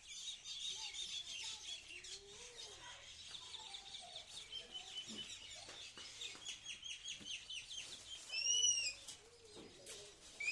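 Small birds chirping and twittering in quick, high-pitched runs, with one louder arched call near the end.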